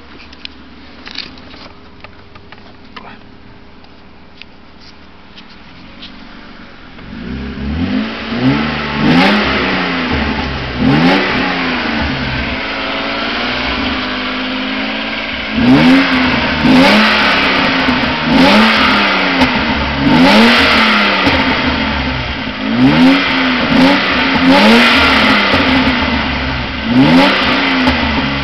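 BMW E36 engine and exhaust, warm, running quietly at idle and then, about seven seconds in, revved over and over so the pitch rises and falls. From about halfway the revs become sharp, loud blips about once a second, falling back quickly; the car has a lightweight flywheel.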